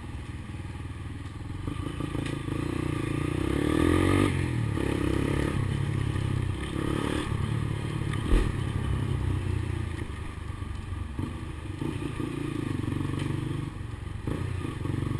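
Honda CBX 200 Strada motorcycle's single-cylinder engine running, the revs climbing to a peak about four seconds in and then settling back to a steady run. A single knock sounds a little past the middle.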